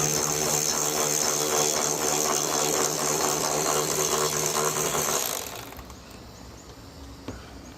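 Power tool running a 10 mm swivel socket on a bolt: a steady whine under a fast rattling clatter, stopping about five and a half seconds in.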